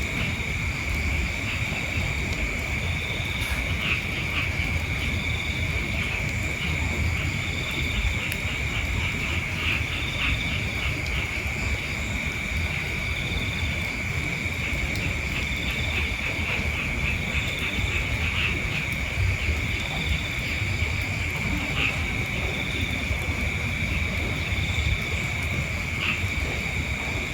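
Insects chirring steadily in a continuous high, rapidly pulsing drone, with a second fainter insect call repeating about once a second, over low rumbling noise.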